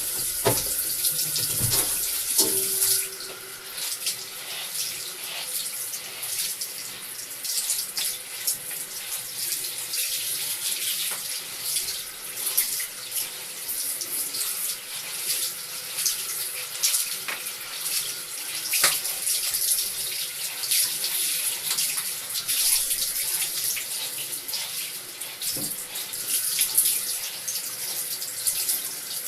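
Water running steadily from a tap into a tub or sink, with small irregular splashes, as a cat is bathed.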